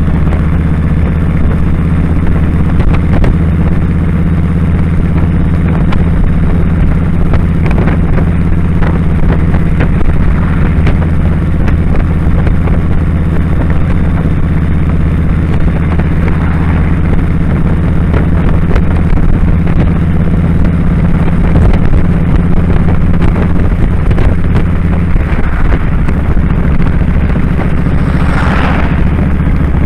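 2001 Kawasaki Drifter 1500's V-twin engine running at a steady cruise. Near the end a short rising-then-falling whoosh passes over it.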